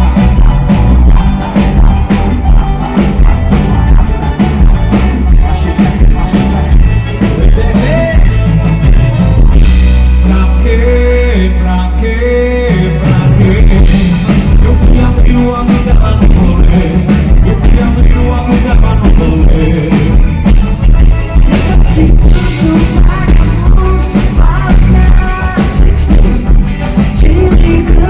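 A band playing loud amplified music with a steady drum beat, bass and a singer. About ten seconds in, the drums drop out for around three seconds under a held low bass note while the singing carries on, then the beat comes back.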